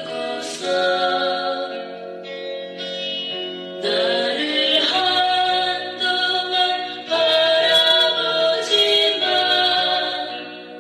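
A woman singing a slow, sad song over instrumental accompaniment, holding long notes.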